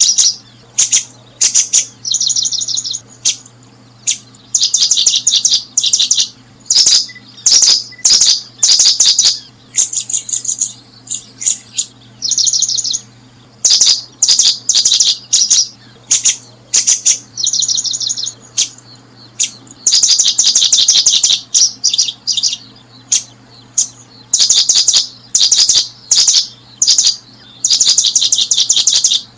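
Small birds chirping in loud bouts of rapid, trilled high notes, one burst after another with short gaps, over a faint steady low hum.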